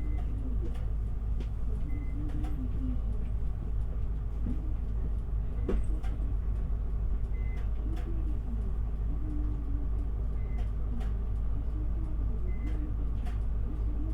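Interior of an Isuzu Erga city bus under way: the diesel engine and road noise make a steady low rumble, with scattered short clicks and rattles from the cabin.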